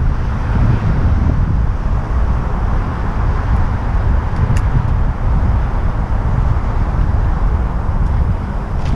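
Wind buffeting the microphone of a moving bicycle, a steady loud low rumble, with a couple of faint brief clicks, one about halfway through and one near the end.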